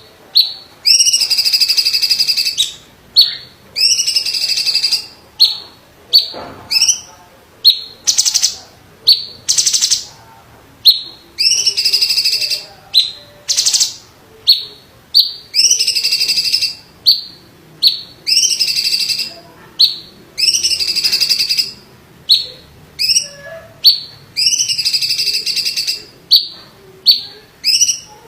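Cucak ijo (greater green leafbird) of the small 'cungkok' type singing loudly. It repeats rolling phrases about a second long every couple of seconds, with short sharp 'shot' notes between them.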